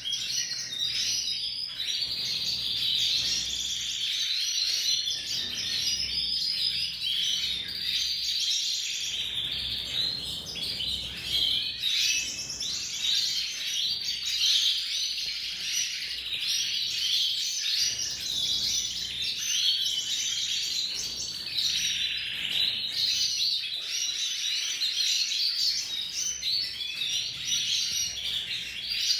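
Domestic canary singing a long, continuous warbling song, with rapid trills woven through it.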